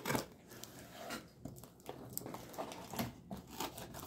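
Folding-knife blade slicing through a flimsy cardboard box: a series of faint, irregular scratching and tearing strokes as the edge cuts the cardboard.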